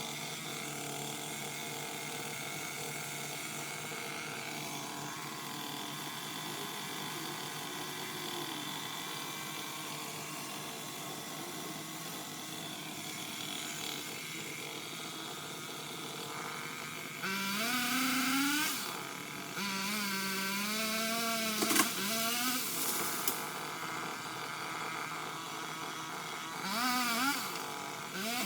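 A small engine running steadily, then revving three times in the last third, its pitch climbing and falling with each rev.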